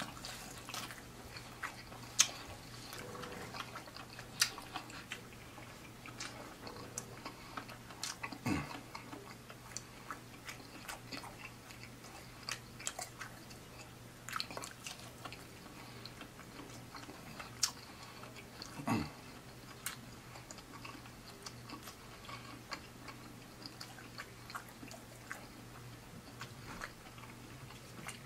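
Close-up chewing of fried seafood: scattered wet mouth clicks and smacks, with two deeper, falling sounds about a third and two thirds of the way through. A faint steady low hum lies underneath.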